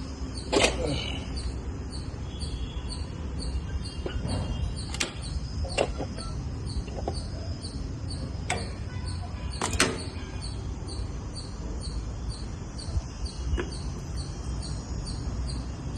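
Background sound with the engine not running: a steady low rumble, a faint regular high chirping about two or three times a second, and a few scattered sharp clicks and knocks.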